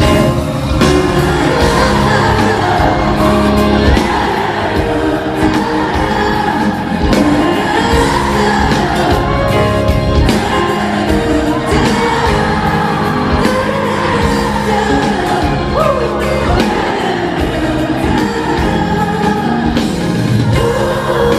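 Loud pop music: a woman singing a melody over a full band backing, as at a live concert.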